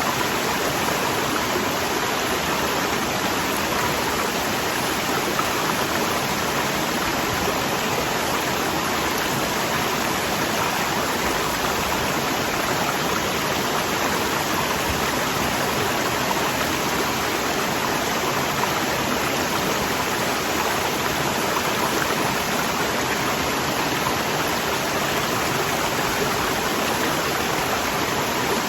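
Waterfall rushing steadily: an even, unbroken hiss of falling water, strong from low to high pitches, with no lulls or single splashes standing out.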